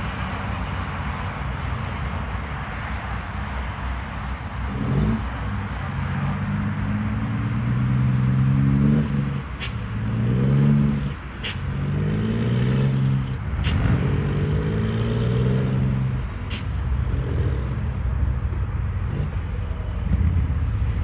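Scania truck engine, fitted with an exhaust diffuser, pulling hard and climbing in pitch, then dropping back several times as it shifts up through the gears. Each shift comes with a short sharp crack, over a steady rush of road noise.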